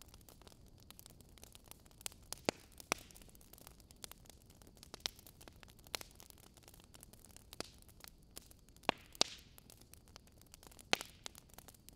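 Zucchini pancake batter frying in oil in a nonstick pan: a faint sizzle with irregular small pops and crackles, a few sharper ones about nine and eleven seconds in.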